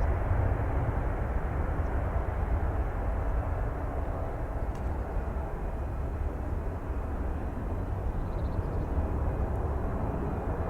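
Jet airliner engines at a distance: a steady low rumble.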